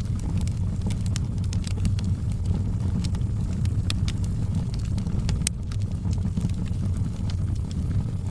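Wood fire burning in a fireplace: irregular sharp crackles and pops of burning logs over a steady low rumble of the flames, with one louder pop about five and a half seconds in.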